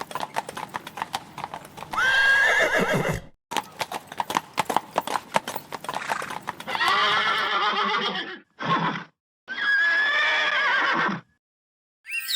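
A horse's hooves clip-clopping at a quick, even pace, then the horse neighing: a long whinny about two seconds in, another two near seven and ten seconds with a short one between, cutting off about a second before the end.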